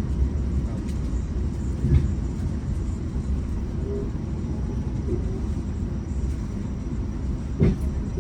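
Steady low rumble heard inside a GO Transit commuter train coach, with a couple of short knocks, one about two seconds in and another near the end.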